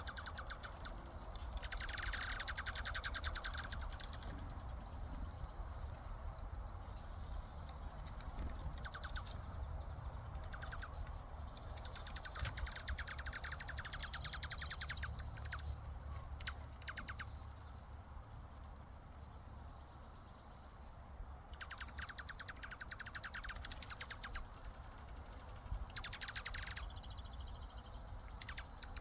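Birds giving rapid, rattling trills in bursts of a second or two, repeated every few seconds, over a steady low hum.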